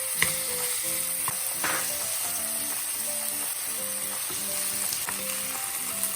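Bite-size chicken breast pieces sizzling steadily in hot oil and garlic in a frying pan, with a few light clicks of a utensil against the pan.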